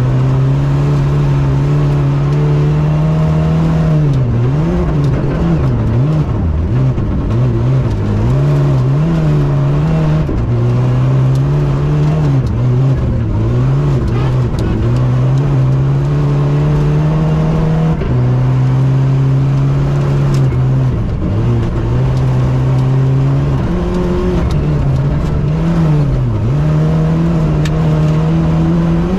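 Rally car engine heard from inside the cabin, held at high, steady revs for long stretches. Several times the revs drop and climb back as the throttle is lifted and reapplied.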